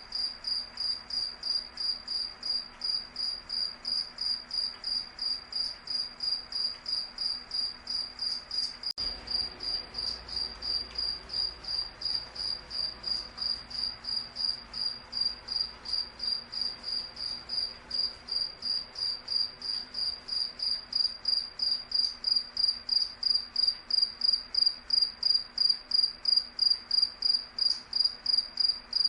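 A cricket chirping steadily on one high note, about two to three chirps a second in an even rhythm, growing louder about two-thirds of the way through.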